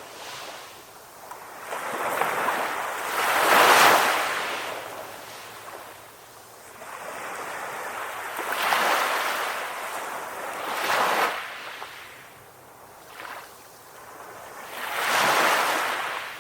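Ocean surf: waves breaking in repeated swells of hiss that rise and fall, four surges, the loudest about four seconds in.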